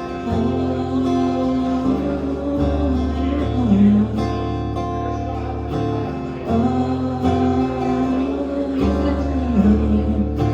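Acoustic guitar strummed, with a voice holding a long wordless melody line in two phrases, the second starting about halfway through.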